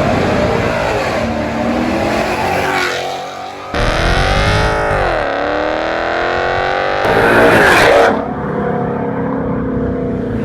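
Ford Mustang engine revving through a true dual cat-back exhaust: the pitch climbs and falls in the first few seconds, then climbs steadily for about three seconds to its loudest point. It drops back to a steady idle about two seconds before the end.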